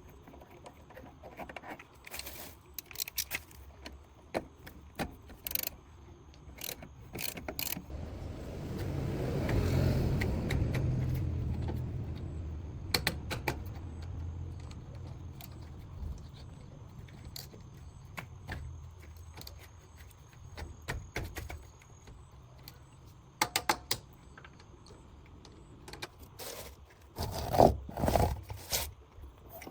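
Metal hand tools clinking and scraping in short, irregular bursts during work on the Jeep, with a low rumble that swells and fades about eight to thirteen seconds in.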